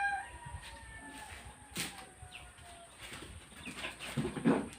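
Rooster crowing, its long drawn-out call trailing off and falling slowly in pitch over the first few seconds. A single knock nearly two seconds in and some soft clattering near the end.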